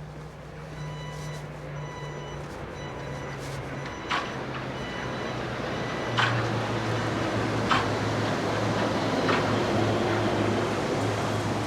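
A vehicle's motor hum growing steadily louder, with a faint high whine early on and four sharp clicks about a second and a half apart in the second half.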